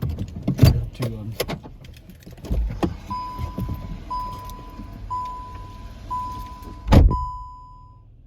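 Car warning chime beeping about once a second at one steady pitch, after a few clicks and knocks from handling in the car. A car door slams shut about seven seconds in, and the chime stops a second later.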